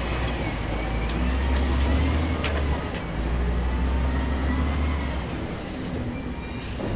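Heavy diesel construction machinery running steadily at a low drone, with a sharp metallic clank about two and a half seconds in.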